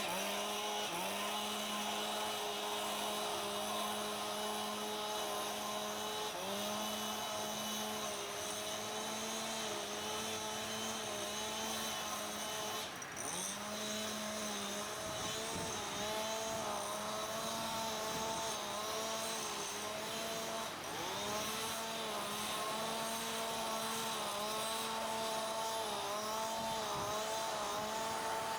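Petrol leaf blower running, its engine note steady with a few brief dips in speed that recover.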